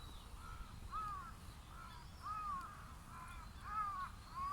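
Crow cawing repeatedly in a run of short, arched caws, about two a second.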